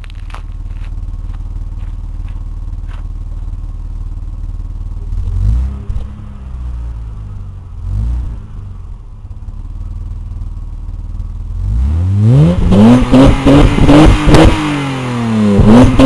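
2002 Mitsubishi Diamante VRX's 3.5-litre V6 on its factory exhaust, idling steadily, then blipped twice. About two-thirds of the way through it revs up sharply and is then blipped again and again in quick succession.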